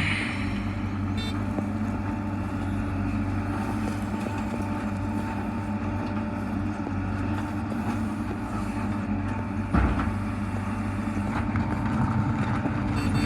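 Heavy diesel engine running steadily, with one sharp knock or clank about ten seconds in.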